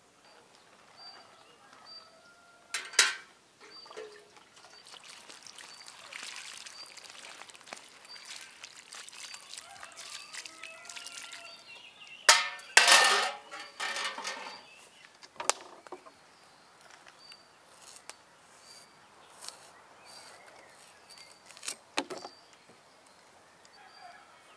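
A small bird chirping over and over at an even pace, with outdoor handling noises: a few loud sharp knocks, the loudest about three seconds in and a cluster around the middle, and a stretch of rustling or pouring-like hiss.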